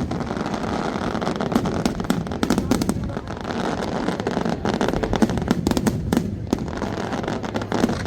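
Fireworks display: a dense, rapid crackle of many small bangs and pops over a continuous rumble, easing briefly about six seconds in.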